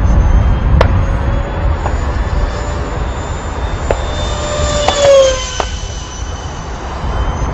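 Twin 70 mm electric ducted fans of a model F-22 Raptor jet whining in flight. About five seconds in the whine swells and its pitch drops as the jet passes close by. A low wind rumble on the microphone runs underneath.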